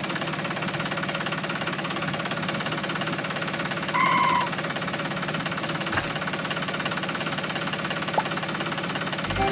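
A mini tractor's engine runs steadily at an even pitch. A short high beep sounds about four seconds in.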